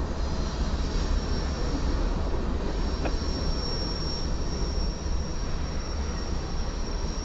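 Covered hopper cars of a BNSF grain train rolling past: a steady low rumble of steel wheels on rail, with a thin, high, steady wheel squeal that grows louder a few seconds in, and a single sharp click about three seconds in.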